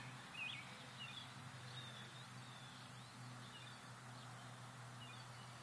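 Quiet outdoor background with a few faint, short bird chirps and a steady low hum.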